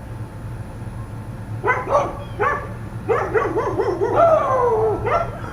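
Dogs barking and yipping, starting about a second and a half in, then a drawn-out whining howl that falls in pitch near the end. A steady low hum runs underneath.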